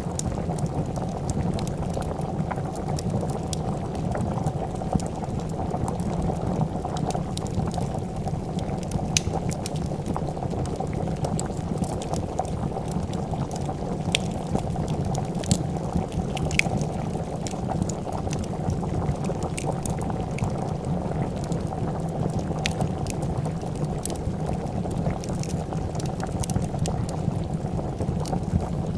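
A pot of soup bubbling steadily at a full boil, with scattered sharp crackles and pops from a wood fire over it.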